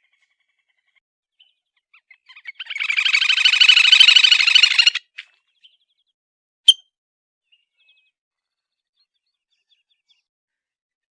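Grebe (titihan telaga) giving one rapid trilling call about two and a half seconds long, followed a moment later by a single sharp click.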